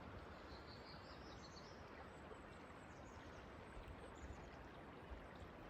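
Quiet forest ambience with a faint steady hiss, and a small bird singing a thin, high warbling phrase in the first two seconds, with fainter high notes again a little past the middle.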